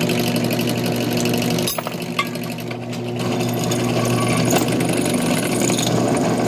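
Drill press motor running at low speed while the bit drills into an aluminium peg, a steady mechanical hum with a brief dip just under two seconds in.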